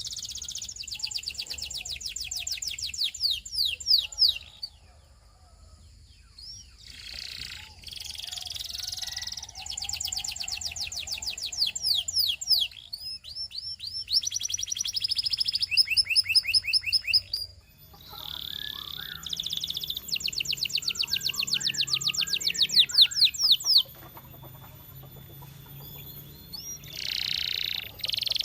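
Canary singing: fast trills of rapidly repeated sweeping notes, in phrases of a few seconds each, separated by short pauses.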